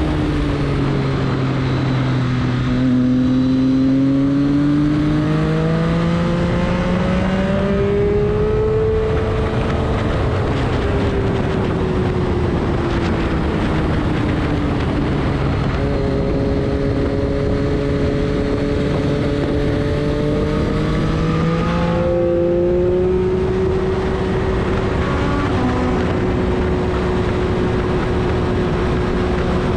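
Engine of a vehicle lapping a race track, its pitch rising and falling steadily as it speeds up and slows, with a sudden drop in pitch about 22 seconds in, over constant wind and road noise.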